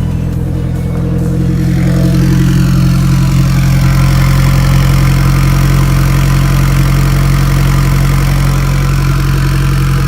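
Turbocharged 4G63 four-cylinder in a DSM idling steadily through a newly fitted side-exit exhaust. It gets a little louder about two seconds in and holds there.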